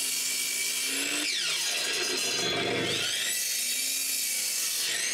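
Electric power saw cutting wood: the motor runs, winds down about a second in, starts up again partway through, and winds down once more near the end.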